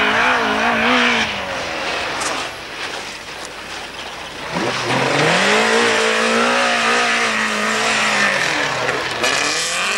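Rally car engine revving hard while the car slides through a snowy corner. Its note wavers briefly at the start, then from about halfway climbs and holds high for several seconds before dropping away, with a broad hiss alongside.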